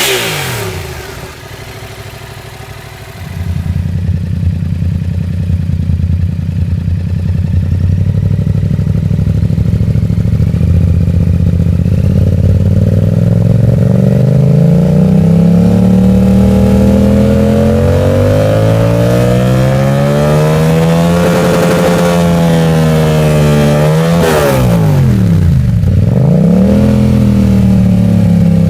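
Motorcycle engine revved through its exhaust. A rev dies away to a quieter running, then a few seconds in a louder engine runs steadily, climbs slowly in pitch to a peak and drops back, with a quick blip of the throttle near the end.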